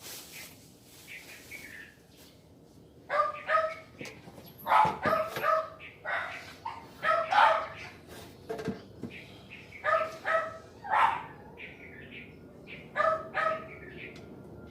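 A dog barking repeatedly, mostly in quick pairs of short barks, starting about three seconds in.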